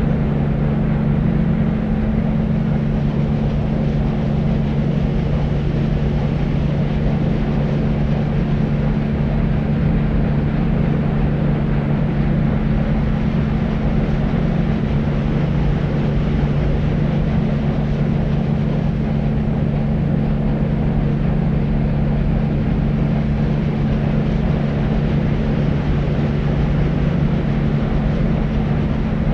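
Deep white noise for infant sleep: a steady, unbroken low rumbling hiss weighted toward the bass, with a constant low hum under it and little treble.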